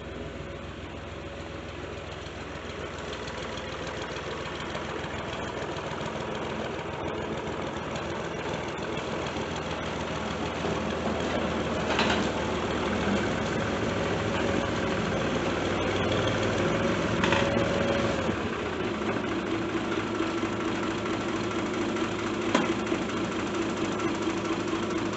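Tractor engine running steadily, its held tone dropping to a lower pitch about three-quarters of the way through, with a few sharp clicks.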